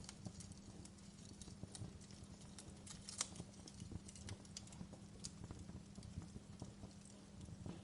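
Wood fire burning in a fireplace, crackling with irregular snaps and pops over a low rumble.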